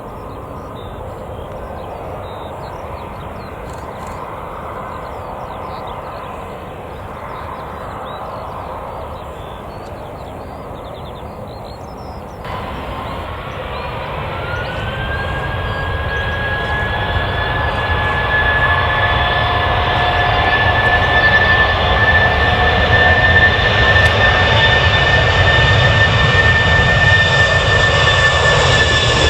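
Jet airliner engines spooling up: after a steady background rumble, a whine rises in pitch about twelve seconds in and then holds, with the engine noise growing steadily louder.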